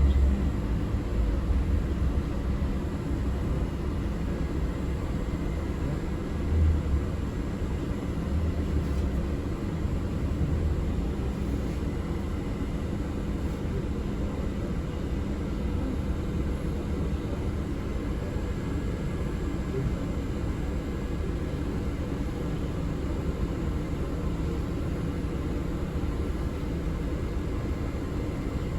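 Steady low rumble of a city public-transport vehicle in motion, heard from inside the passenger cabin, with a faint steady hum and a brief louder swell about six seconds in.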